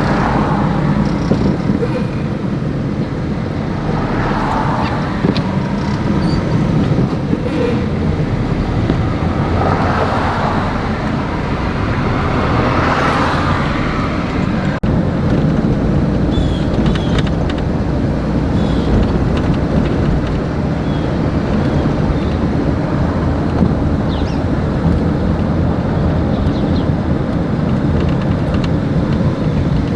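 Steady road and traffic noise from a car driving, a continuous low rumble with a few swells as vehicles pass. The sound drops out for an instant about halfway through.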